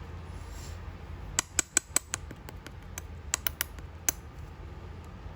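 A series of short, sharp clicks or taps, several in quick succession and then a few more spaced out, over a steady low hum.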